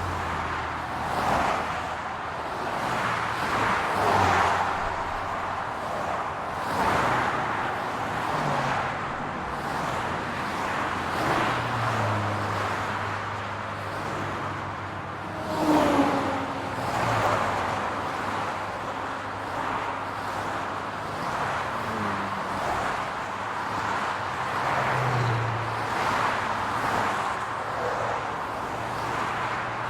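City street traffic: cars passing one after another over a steady engine hum, each pass swelling and fading every few seconds, the loudest about halfway through.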